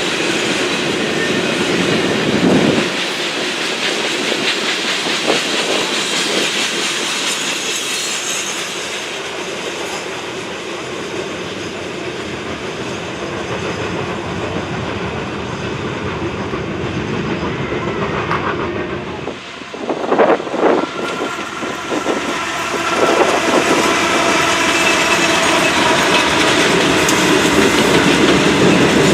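Freight train passing, with a steady din of wheels on rail. About two-thirds of the way through it briefly dips, then a few sharp clacks come, and it grows louder near the end.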